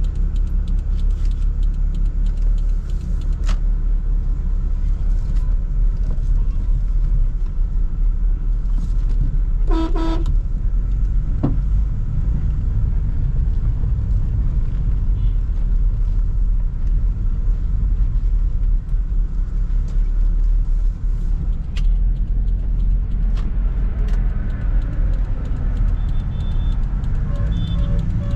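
Steady low rumble of a Toyota Sprinter AE110 being driven, heard inside the cabin: engine and road noise. A short car horn toot sounds about ten seconds in, and fainter pitched beeps come near the end.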